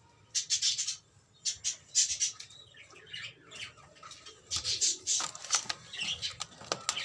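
A young Karbalai pigeon squeaking, a squeaker not yet fully self-feeding, giving short high squeaks in several groups.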